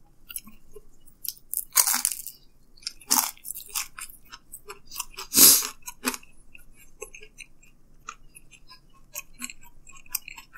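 Close-up chewing of reheated thin-crust pizza: crisp crunches of the crust, loudest about two, three and five and a half seconds in, then softer chewing clicks.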